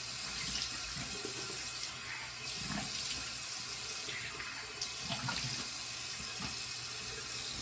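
Tap running into a sink while water is splashed over the face to rinse off after a shave.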